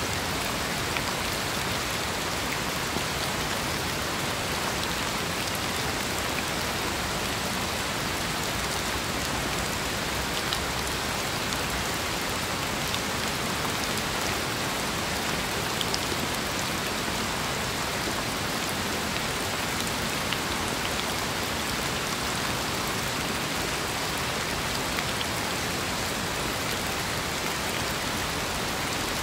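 Steady rain falling, an even dense hiss with a few louder single drop ticks scattered through it.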